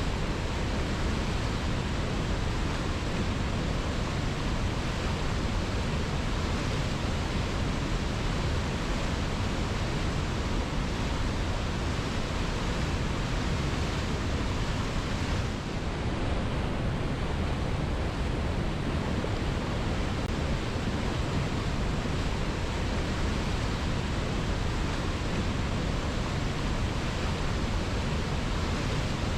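Waterfall rushing steadily, an even, unbroken wash of water noise with a brief slight dip a little past halfway.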